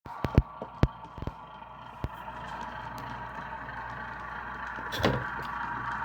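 HO scale model train running on the layout: a steady hum that slowly grows louder, with several sharp clicks in the first two seconds and a louder knock about five seconds in.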